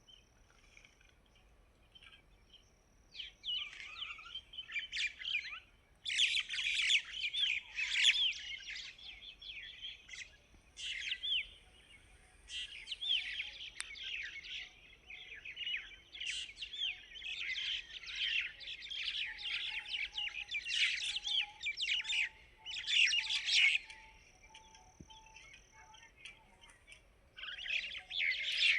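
Small birds chirping in bouts of quick, high notes that begin a few seconds in and stop and start several times.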